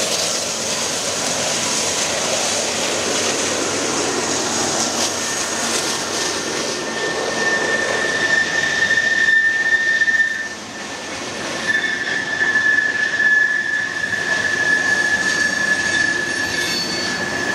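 Long Union Pacific freight train of covered hopper cars rolling past close by, a steady rush of wheels on rail. About seven seconds in a high steady squeal starts, breaks off briefly and returns to near the end; it sounds like the train's brakes being applied.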